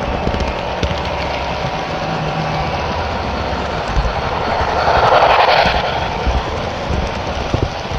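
HO scale model train running on layout track: a steady rumble with scattered clicks, and a hiss that swells and fades about five seconds in.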